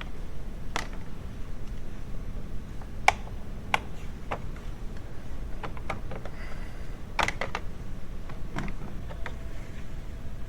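Irregular light clicks and taps of hand tools and parts being handled, a dozen or so sharp strikes spread unevenly, two of them louder about three seconds in and near the four-second mark, over a low steady background hum.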